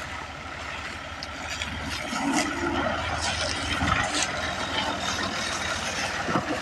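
Tractor diesel engine running, its steady rapid low firing getting a little louder about two seconds in.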